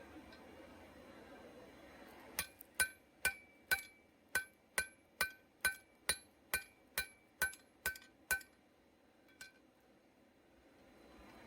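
Hammer blows on steel over an anvil while forging, about fourteen evenly paced strikes at a little over two a second, each with a short metallic ring, then one lighter tap a second later.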